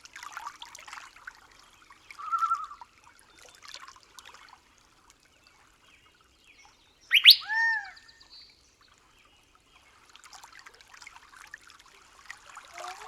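Birds calling in a forest soundscape: a short trill about two seconds in, then one loud, sharp call with a couple of arched notes about seven seconds in, over a faint crackly trickling background.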